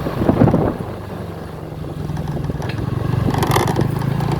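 Small scooter engine running while riding, with wind on the phone's microphone; the engine note drops back about a second in and picks up again.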